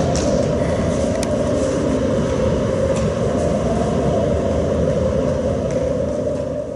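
A heavy, steady rumble that starts to fade away near the end.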